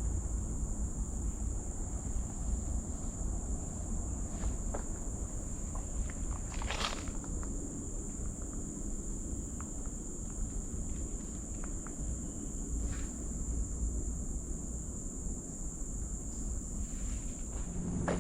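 Steady high-pitched drone of forest insects with a low rumble underneath, and a few scattered footsteps on the trail.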